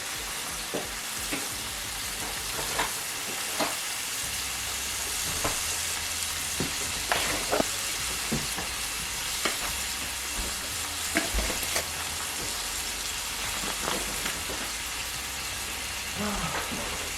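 Oil sizzling steadily in a frying pan, with a utensil clicking and scraping against the pan at irregular intervals as food is stir-fried.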